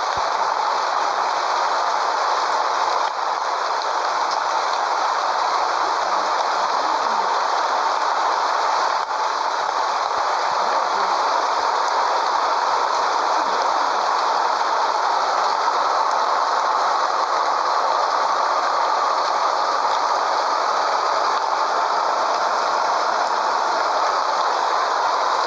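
Steady rushing road and wind noise of a Scania 113H truck travelling at a constant speed, with no clear engine note and no change in pace.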